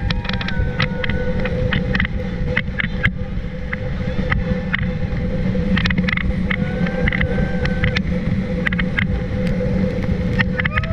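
Motorboat engine running steadily under heavy wind rumble on the microphone, with scattered splashes and crackles.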